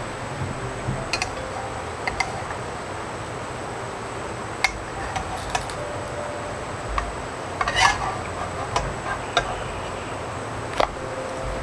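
Light, irregular clinks and taps of kitchen utensils against dishes, about a dozen, with the loudest cluster near eight seconds in, over a steady background hiss.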